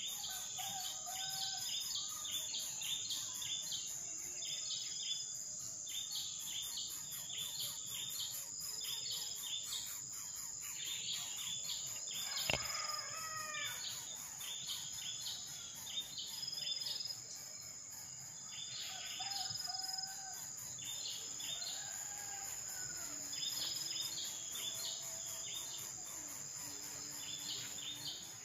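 Insects droning and chirping steadily at a high pitch, with birds making short chirping calls over and over. A single sharp click comes about halfway through.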